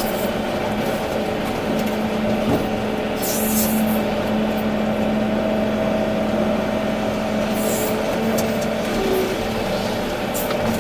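Volvo EC380D excavator's diesel engine running steadily under working load, with a steady hum and two short hisses, one about three seconds in and one near eight seconds.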